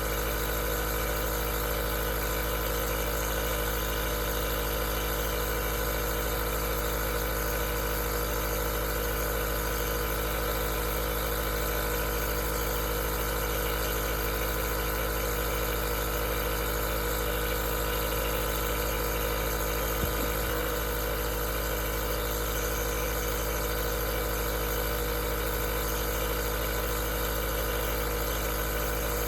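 Aerosol nebulizer running steadily: a continuous, unchanging machine hum with a hiss.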